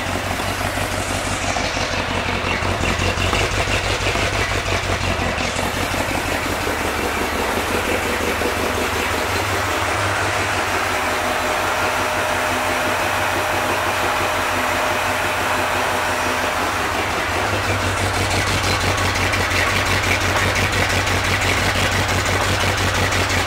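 Chevrolet Performance 350 H.O. small-block V8 in a Jeep CJ-7, running steadily through its new exhaust, with a little more low-end rumble from about two-thirds of the way through.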